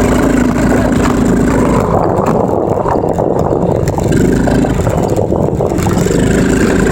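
Dirt bike engine running during a ride, steady at first, then rougher and noisier for a few seconds in the middle before settling again.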